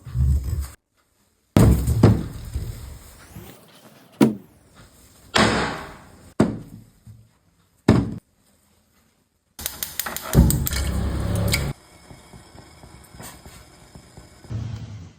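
A string of short, hard-cut sweet corn ASMR sounds: dull thunks and crunchy, crackling scrapes.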